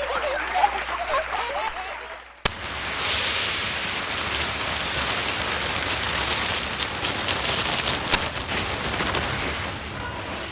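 A sharp click, then a steady pattering hiss of many small impacts, with one louder click about two-thirds of the way through.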